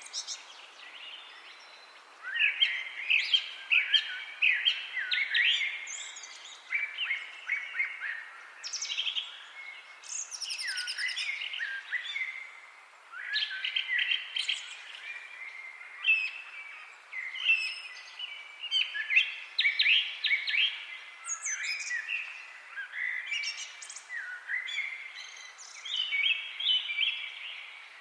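Songbirds singing: bursts of quick chirping phrases, each a second or two long, with short pauses between.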